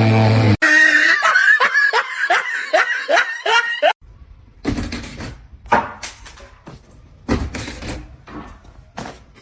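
Music cut off abruptly, then a quick run of short, high-pitched voice-like sounds, about three a second, for some three seconds; after another cut, scattered knocks and rustles.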